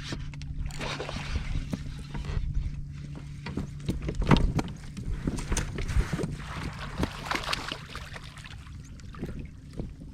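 Water splashing and sloshing around a fishing kayak, with several knocks on the hull, the loudest about four and six seconds in, over a steady low hum.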